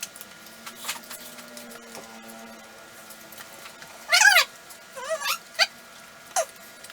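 A household pet's high, wavering calls: one longer call about four seconds in, then several shorter ones.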